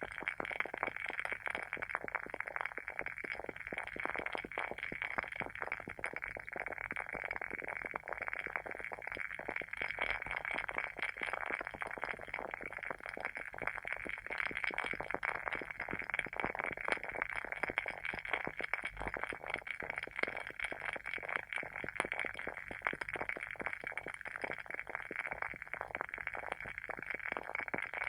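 Wooden wick of a WoodWick candle burning with a steady, dense crackle of small rapid pops, like a tiny campfire.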